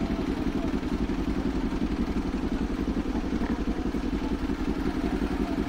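Kawasaki Z400's parallel-twin engine running steadily at an even pitch, its exhaust pulses continuous with no revving.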